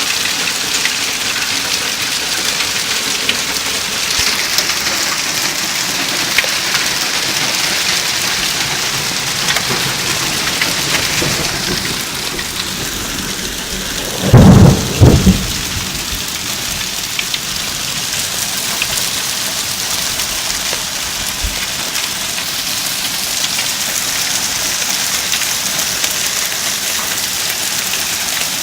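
Hail and rain pelting down steadily, a dense hiss with small ticks of hailstones striking. About halfway through, a loud clap of thunder comes in two close peaks lasting about a second.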